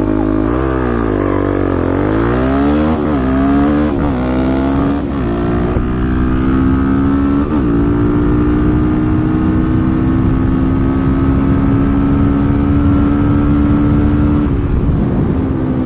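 Motorcycle engine under way: the revs dip and pick up, then climb and drop back through several gear changes over the first several seconds before settling into a steady cruise, easing off slightly near the end.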